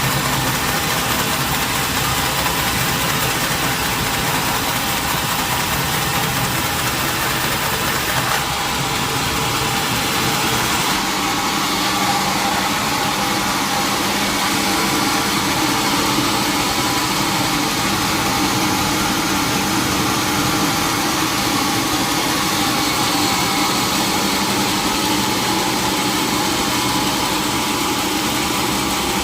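Sawmill machinery running steadily: a continuous engine-driven drone and noise, changing slightly in character about eight and again about eleven seconds in.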